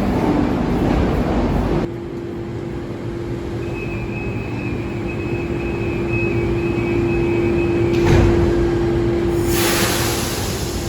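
Sydney Trains electric suburban train: loud running noise that breaks off abruptly about two seconds in, then a steady electric hum from the train with a faint high whine. Near the end come a thump and a burst of hiss.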